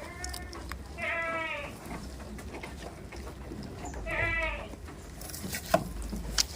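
Goat bleating: two loud, wavering bleats about three seconds apart, with a fainter one at the very start. A few sharp clicks or knocks come near the end.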